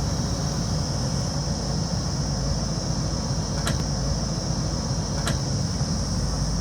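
Diesel engine of a JCB backhoe loader running steadily, with two brief clanks in the second half.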